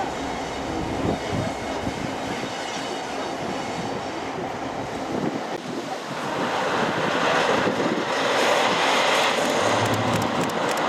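Diesel train running on the line, its engine rumbling under wheel-on-rail noise. A louder, even rushing noise builds about six seconds in.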